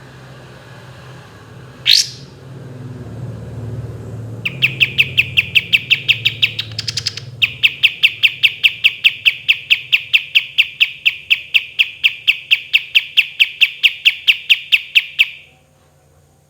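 Kapas tembak songbird singing: one sharp upward note, then a very long fast trill ('roll') of evenly repeated notes, about five a second, that stops suddenly near the end.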